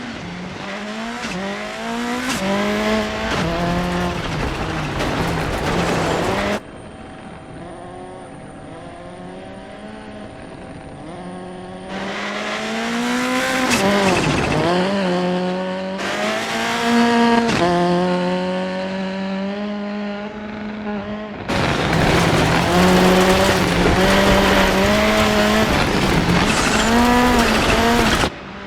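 Rally car engine revving hard and dropping back again and again with gear shifts. It comes in several segments joined by abrupt cuts, one of them quieter.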